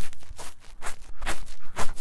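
Ear-cleaning tool scratching vigorously inside the silicone ear of a 3Dio binaural microphone: about five quick, rough scraping strokes in a steady rhythm.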